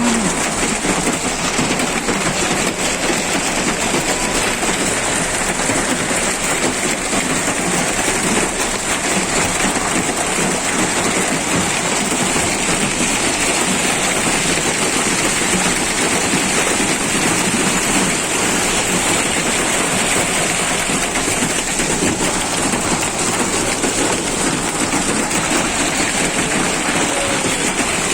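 Hailstorm: hail and rain pelting down in a dense, steady patter of countless small impacts.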